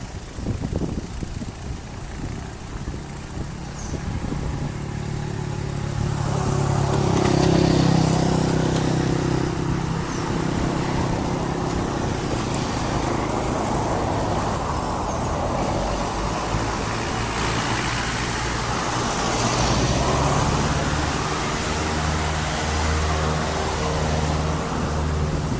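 Cessna 172S Skyhawk's four-cylinder piston engine and propeller, running quietly at first, then coming up to full power about six seconds in and holding a steady loud drone, as for a takeoff run.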